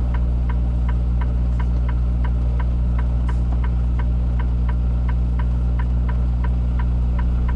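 Semi-truck's diesel engine idling, heard from inside the cab as a steady low hum, with a light regular ticking about four times a second.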